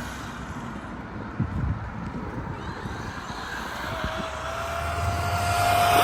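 Electric motor of a Traxxas XRT Ultimate RC monster truck running over pavement, with low tyre rumble and scattered knocks. From about two-thirds of the way in, a steady motor whine rises slightly in pitch and grows louder toward the end.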